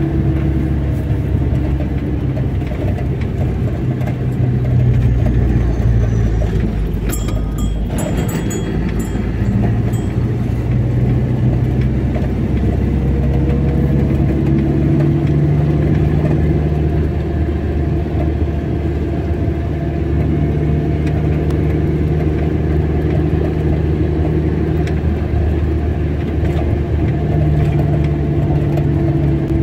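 Car engine and road noise while driving, the engine note rising and falling a little with speed. A few brief clicks about seven seconds in.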